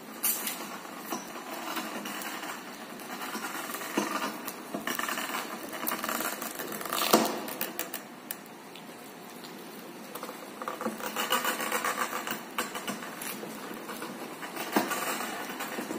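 Motor scooter pushed by hand with the engine off, its drive making an irregular clicking and rattling noise, with a louder knock about halfway through and a denser stretch of rattling later on. The owner is sure the noise comes from the drive. It appears only when the scooter is pushed after the engine has warmed up.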